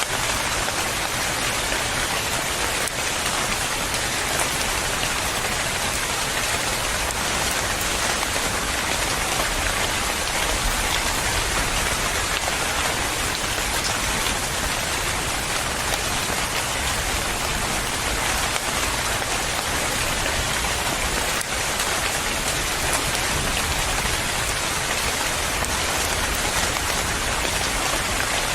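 Steady rain falling, an even hiss of many drops pattering on a surface with no change in intensity.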